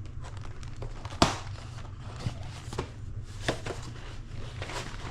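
Cardboard box and packaging being handled: a few sharp taps and knocks, the loudest about a second in, over a low steady hum.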